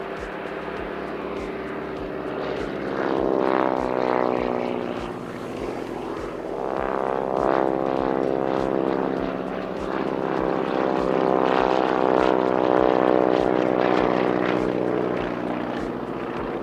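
Junkers F13 replica's Pratt & Whitney R-985 Wasp Junior radial engine and propeller running in flight as the aircraft passes, swelling and fading in loudness three times.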